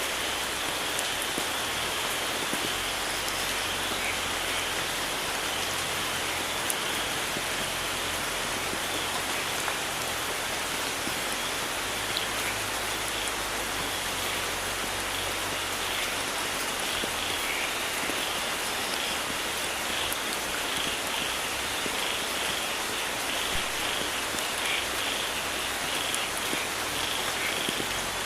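Steady rainforest rain falling, an even hiss of drops. Short, high chirping frog calls repeat over it and grow more frequent in the second half.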